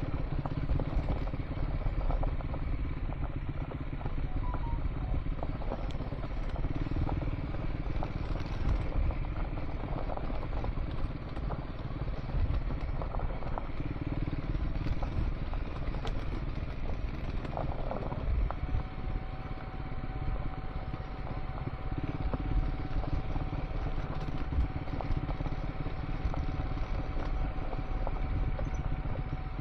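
Scrambler motorcycle riding on a gravel dirt track: the engine runs steadily under a low rumble, with stones clattering and knocking under the tyres. A thin steady whine joins about two-thirds of the way through.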